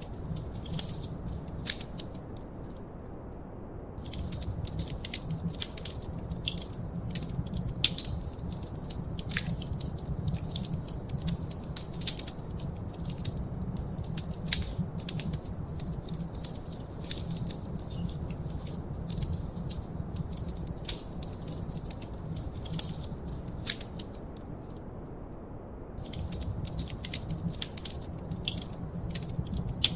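Wood fire in a fireplace crackling, with irregular sharp pops and snaps over a steady low rumble. The crackling briefly falls away twice, about three seconds in and again around twenty-five seconds in.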